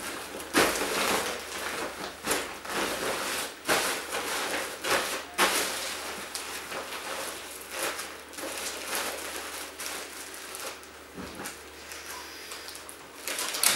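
Rustling and irregular knocks of household things being handled and packed into a cardboard box.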